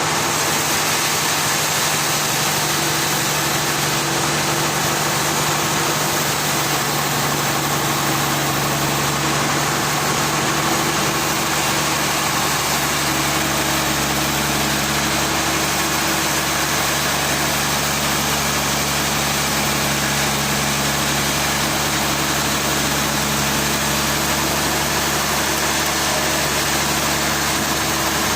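An engine running steadily at a constant speed: an even hum under a dense hiss, with no change in pitch or load.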